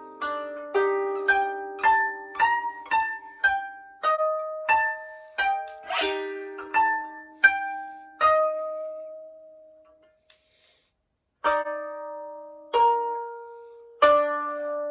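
Koto played solo: a run of single plucked notes, about two a second, each ringing and fading. Near the middle the last note rings out into a pause of a few seconds before the plucking picks up again.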